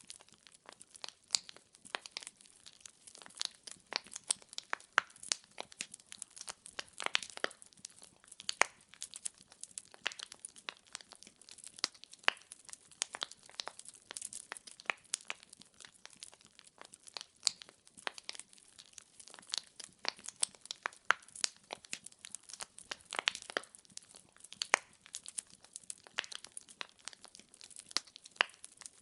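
Wood fire in a fireplace crackling, with a steady run of irregular sharp snaps and pops from the burning logs over a faint hiss.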